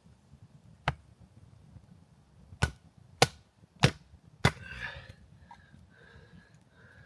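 Five sharp knocks, the first alone and the last four evenly spaced about half a second apart, followed by a brief rustle.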